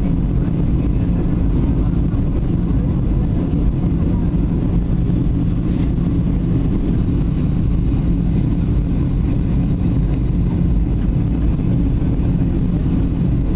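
Boeing 737 cabin noise: a steady low rumble of the jet engines and airflow with a constant hum, unchanging throughout.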